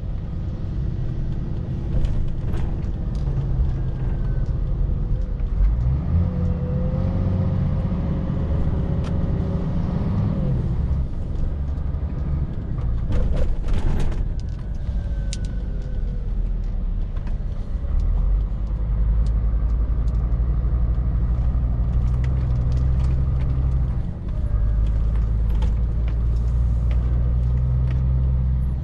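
Scania R450 lorry driving: a steady low engine drone with road noise. The engine note rises for a few seconds about a quarter of the way in, a few short knocks come near the middle, and the drone briefly dips twice later on.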